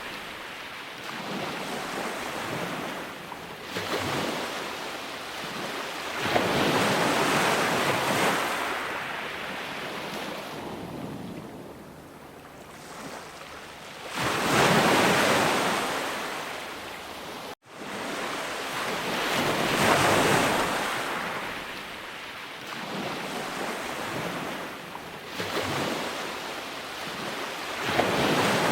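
Ocean waves breaking and washing ashore, the surf swelling and falling away every few seconds, with a brief dropout a little past the middle.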